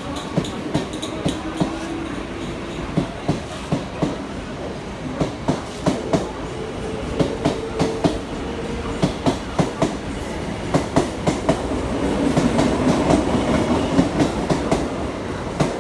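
Local train running on the track, its wheels clicking over the rail joints in a steady run of clicks over a rumble. It grows louder near the end.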